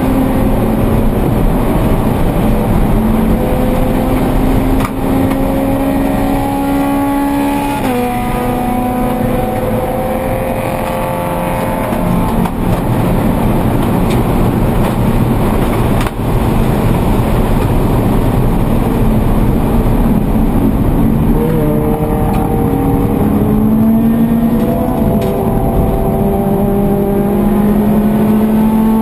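Scion FR-S race car's 2.0-litre flat-four engine heard from inside the cabin under hard driving: the pitch climbs for several seconds, drops sharply about eight seconds in, stays lower for a stretch, then climbs again near the end, over steady road and tyre noise.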